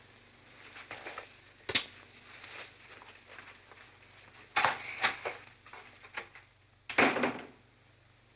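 A few scattered knocks and thuds on a quiet background: a sharp one after about two seconds, a short cluster halfway through, and the loudest, slightly longer one near the end.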